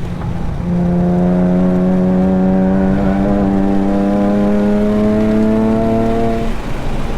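Nissan 370Z Nismo's 3.7-litre V6 accelerating out of a corner, its note rising slowly and steadily, with a short break near the end as for a gear change.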